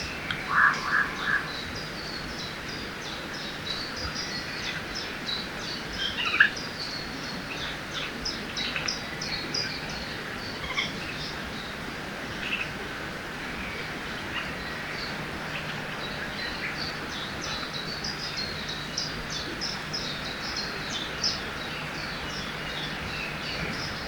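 Forest ambience with many small birds chirping throughout over a steady background hiss of running water. A few louder calls stand out: a quick run of three or four notes about a second in, and a single sharp call about six seconds in.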